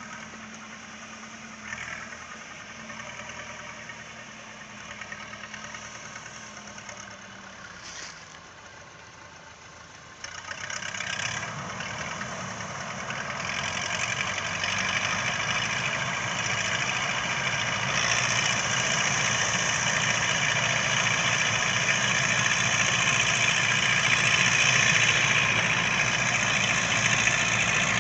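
Renault 754 tractor's diesel engine running with a Zmaj two-row corn picker. The sound gets much louder about ten seconds in and keeps building, with a growing mechanical noise over the engine.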